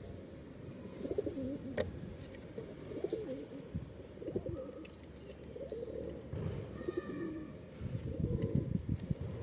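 Pigeons cooing repeatedly in low, wavering calls, with a sharp click about two seconds in.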